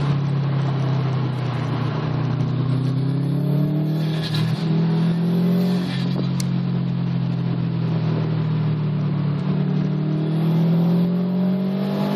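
A 2010 Subaru WRX's turbocharged flat-four engine heard from inside the cabin, pulling hard under acceleration with the pitch climbing. It breaks briefly about four seconds in and climbs again toward the end, over steady road and wind noise.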